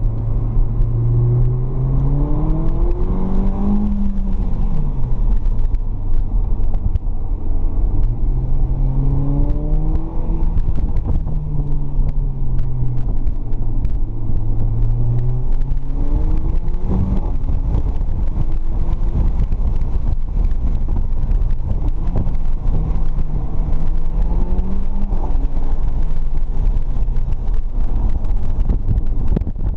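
Mercedes CLA45 AMG's turbocharged four-cylinder engine, heard from inside the cabin while lapping a track. The revs climb hard, then drop sharply about 4, 17 and 25 seconds in as the car shifts or lifts for the next corner. Road and wind noise run steadily underneath.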